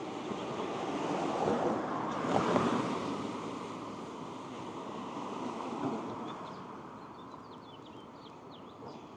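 Wind rushing over the microphone and road noise as a bicycle rolls along, swelling about two seconds in and then easing off.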